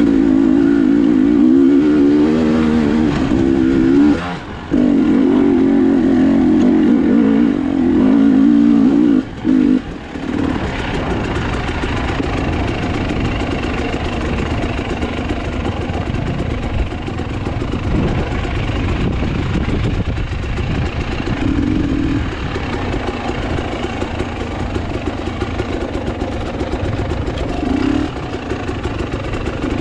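Enduro motorcycle engine running under throttle, its pitch wavering, with brief cut-offs about four and nine seconds in; after that it runs quieter and rougher.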